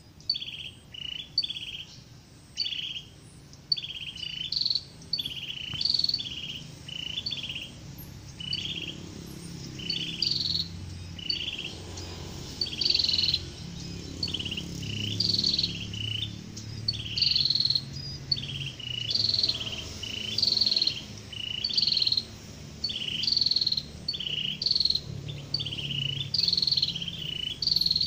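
A small bird calling over and over, short high chirps repeated a little more than once a second, with a faint low rumble underneath.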